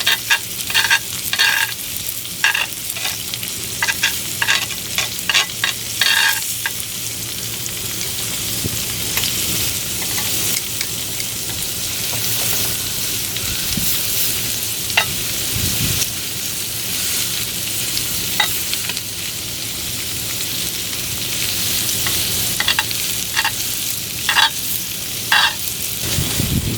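Thick steak sizzling steadily in a hot pan, with a run of short clicks and taps in the first six seconds and a few more near the end.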